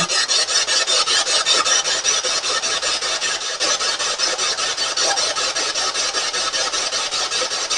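Spirit box sweeping through radio stations: a steady hiss of static chopped about eight times a second as it jumps from channel to channel.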